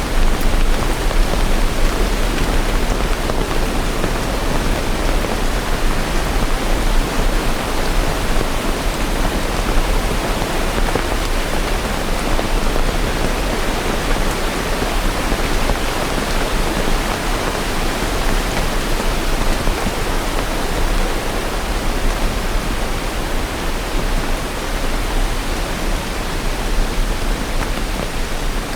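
Steady heavy rain, a dense even hiss with a low rumble underneath and no separate drops or thunder standing out.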